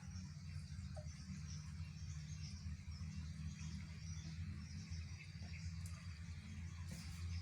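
Outdoor ambience: a steady low rumble with faint, scattered high chirping over it.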